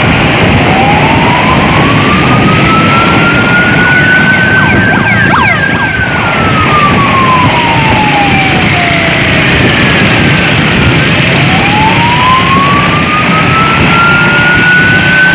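Emergency-vehicle siren in a slow wail, rising in pitch over about five seconds, falling over about five seconds, then rising again. A loud steady rushing noise runs beneath it.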